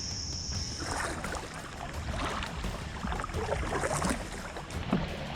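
A steady high insect trill that cuts off about a second in, then wind rumbling on the microphone with irregular rustles and knocks from a kayak.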